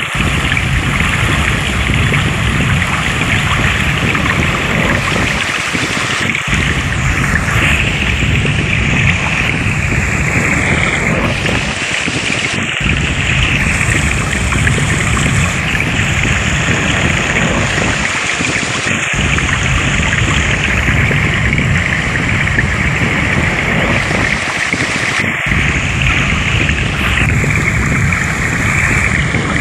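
Steady, loud rush of flowing water, with a full low rumble that dips briefly about every six seconds.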